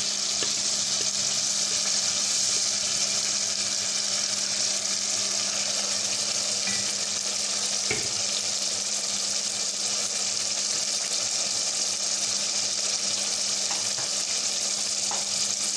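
Chicken and freshly added onion-tomato paste frying in oil in a steel pot, a steady sizzle, over a low steady hum, with a light knock about eight seconds in.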